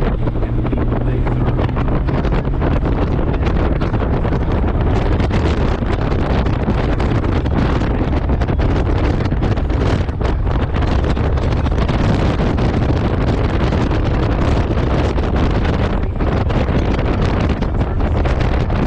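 Wind rushing and buffeting over the microphone of a Honda Gold Wing motorcycle at riding speed, with the bike's engine and road noise low underneath. The sound is loud and steady.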